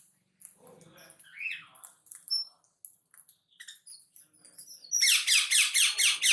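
Small pet birds chirping in scattered short high notes, then a loud rapid run of repeated calls, about seven a second, starting about five seconds in.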